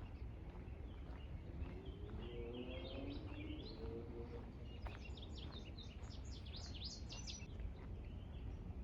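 A songbird singing two quick twittering phrases of rapid high notes, over a steady low rumble of wind and walking.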